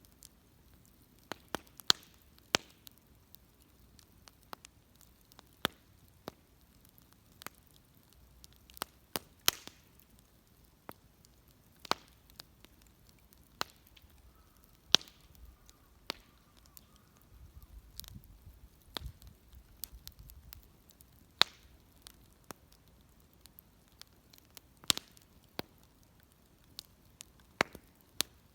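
Wood fire crackling, with sharp irregular pops and snaps at uneven intervals.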